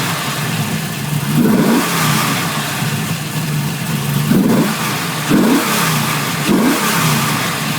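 Camaro Z28 V8 fitted with a Lunati 55008 camshaft and 1.82 roller rockers, running steadily with four short throttle blips in which the pitch quickly rises and falls back.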